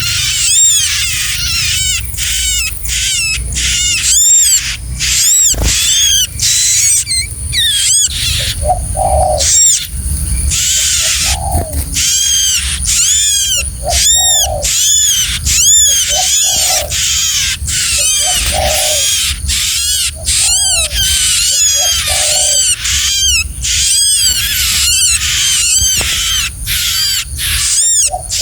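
A small bird chirping loudly and rapidly, a dense run of short arching chirps, with a lower, shorter note every couple of seconds from about a third of the way in.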